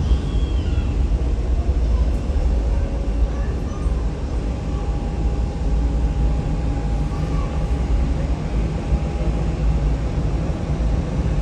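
Steady low rumble of jet aircraft engines, with a faint steady whine through the middle.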